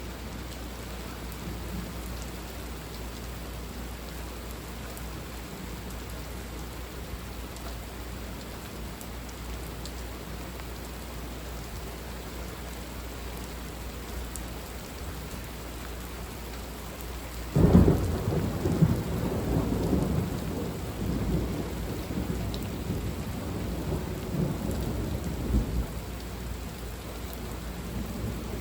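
Steady rain falling, then, a little past halfway, a sudden loud thunderclap that rolls on as rumbling thunder for about eight seconds before fading back under the rain.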